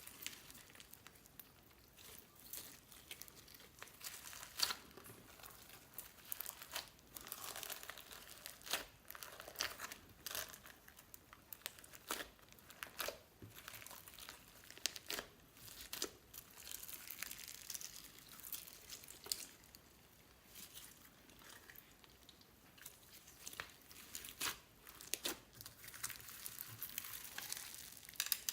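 Slime being kneaded and stretched by hand, giving quiet, irregular crackling pops and clicks with a few sharper snaps.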